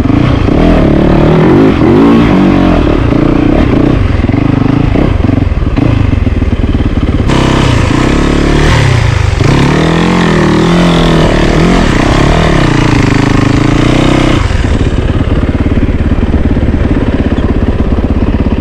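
Yamaha YZ450FX single-cylinder four-stroke dirt bike engine under way, its pitch rising and falling again and again as the throttle opens and closes. The revving is busiest in the middle, then settles to a steadier low run for the last few seconds.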